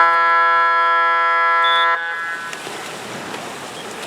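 Game-clock buzzer sounding one loud, steady tone for about two seconds as the clock runs out, then cutting off suddenly.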